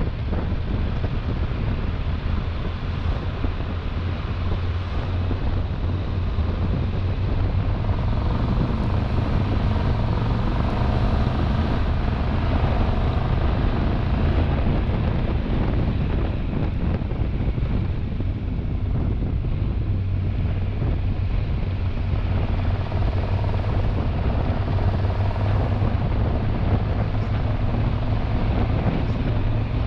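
Wind rushing over the microphone on a moving Triumph Tiger 1200 Rally Explorer motorcycle, with its three-cylinder engine running steadily underneath.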